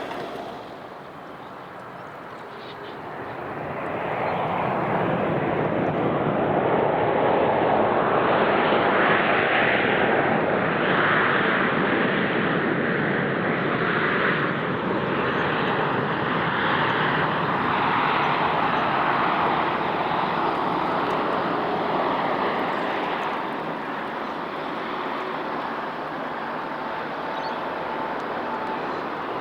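Jet airliner passing, its engine noise building over a few seconds, holding loud for about fifteen seconds, then easing off.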